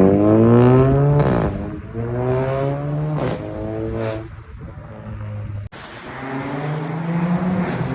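Volkswagen Polo 1.4 TSI turbocharged four-cylinder with a loud aftermarket exhaust, accelerating hard through the gears. The engine note climbs, then drops at each quick DSG upshift, three times in quick succession, with a short sharp crack at each shift. After a quieter moment and an abrupt break, it pulls up in pitch again.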